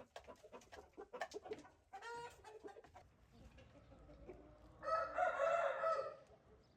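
Chickens calling: a short call about two seconds in, then a rooster crowing for over a second about five seconds in, among scattered light clicks and knocks.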